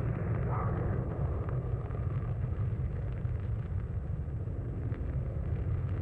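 Steady low rumbling noise of outdoor location sound.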